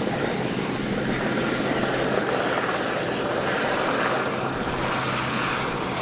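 Aircraft engines running, a steady drone with a slowly shifting hiss.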